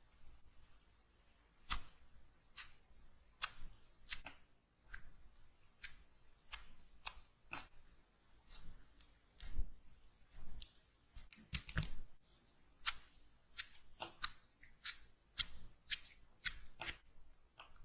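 Slime being handled close up, with irregular sticky clicks and pops and short bursts of wet crackle.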